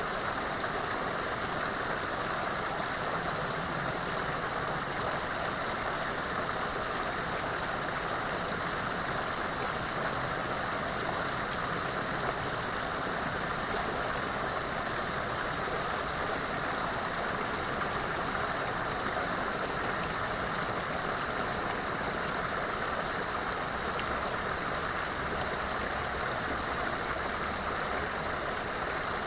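Water pouring and trickling down a rock cutting hung with icicles: a steady splashing hiss, with a few faint drip ticks.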